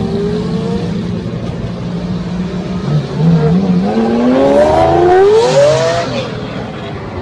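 Car engine running steadily, then accelerating hard about three seconds in, its pitch climbing for a few seconds before it eases off near the end.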